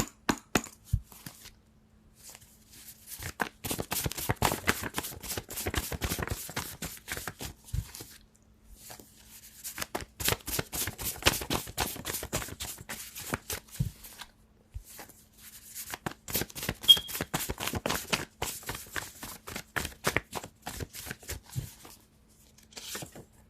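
A deck of tarot cards being shuffled by hand: three bouts of rapid card clicks, each a few seconds long, with short pauses between.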